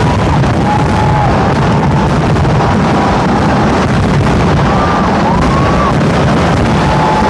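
A dense fireworks barrage, its explosions running together into one continuous rumble. Thin whistling tones rise and fall over it.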